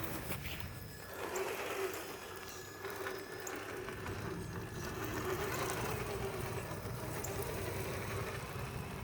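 Traxxas TRX-4 radio-controlled crawler's electric motor and gearbox whining as it drives, the pitch wavering slightly with the throttle, over a steady hiss.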